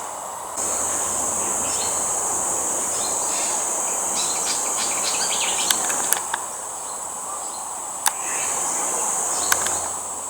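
Insects droning steadily at a high pitch, dropping out briefly twice, with short bird chirps in the middle and a few sharp clicks.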